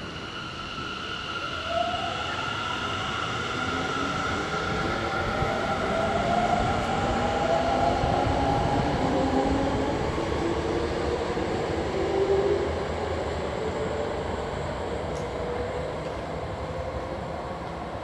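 A Seibu Railway electric train moving through the station. The rumble of its wheels on the rails carries the whine of its traction motors, several tones that slide in pitch. It grows louder to a peak in the middle and fades toward the end.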